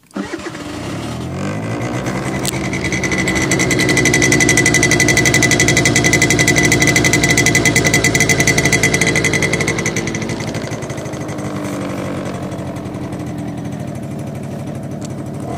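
Sym Jet scooter engine started cold at minus five degrees. It catches at once, runs up louder for several seconds, then eases back to a steadier, quieter idle about ten seconds in.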